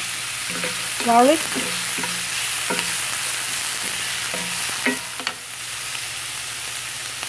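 Diced onion sizzling steadily in a cast-iron skillet, stirred with a wooden spatula that scrapes the pan a few times.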